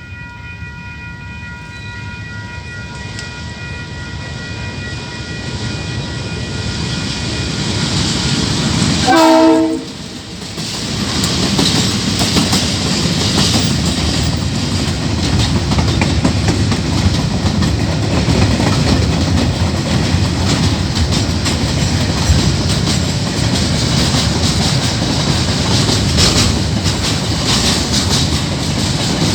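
Freight train approaching and passing. A steady horn chord sounds for several seconds as the train draws nearer, with a loud pulsing tone about nine seconds in. From then on the locomotive and wagons keep up a steady rumble and clickety-clack of wheels on rail joints.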